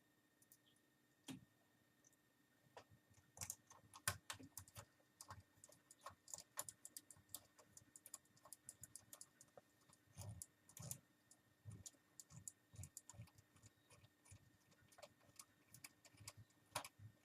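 Small screwdriver driving a tiny screw into a laptop's plastic screen bezel: many quick, irregular clicks and ticks from the driver tip and the plastic.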